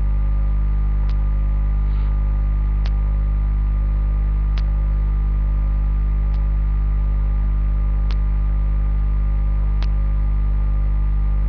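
Steady electrical mains hum, loud and even, with a faint click about every second and three quarters.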